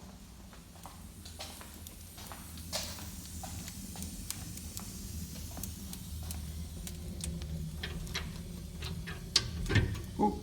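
Wood fire crackling in a brick fireplace-stove, scattered sharp pops over a steady low rumble of the draft. A few louder knocks come near the end.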